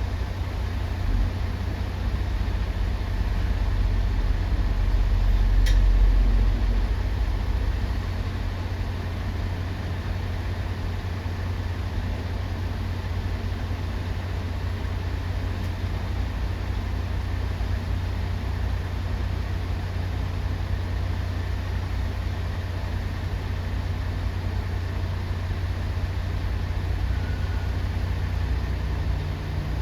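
Heavy engines running in a steady low rumble that swells about four to six seconds in, with a single click near the same moment and a steady low hum joining later on.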